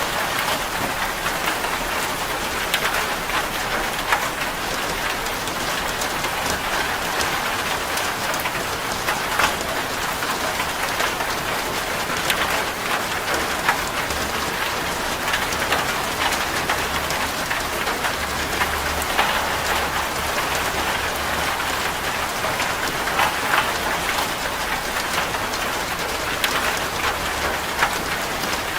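Steady rain falling on a corrugated zinc roof, with a constant hiss and many sharp ticks of individual drops striking the metal.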